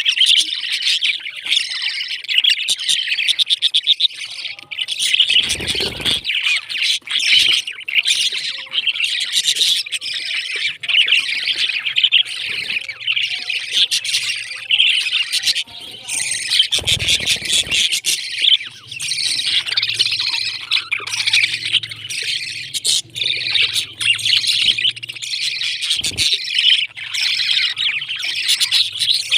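Pet parrots chirping and chattering continuously, many quick overlapping chirps, with a couple of brief low thumps.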